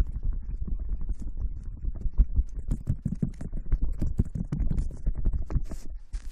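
Close-mic rubbing and scratching on an ASMR microphone, a dense run of soft knocks and clicks with a heavy low rumble.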